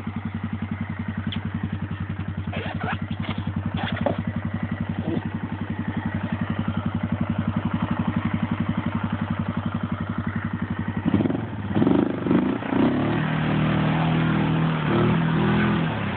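Yamaha Grizzly 600 ATV's single-cylinder engine idling with an even pulse, then revved harder and unevenly from about eleven seconds in as the stuck ATV is driven to try to pull out of the mud.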